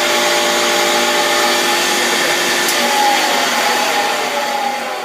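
A loud electric power tool running steadily with a whining hum, its pitch shifting slightly about three seconds in, then starting to wind down near the end.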